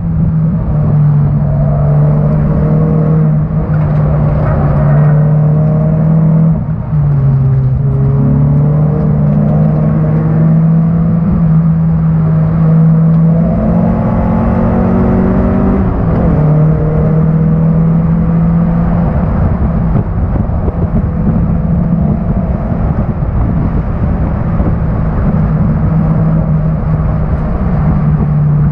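1991 Honda Accord's four-cylinder engine running hard at racing speed, a loud steady note that drops in pitch briefly about seven seconds in and climbs higher for a couple of seconds around fourteen seconds in.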